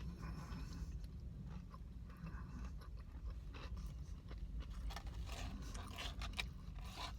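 A person chewing crispy fried chicken tenders close to the microphone: scattered small crunches and mouth clicks over a steady low hum.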